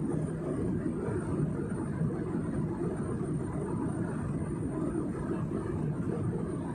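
Steady jet airliner cabin noise: engine and airflow drone, heavy in the low end, with a faint steady high whine.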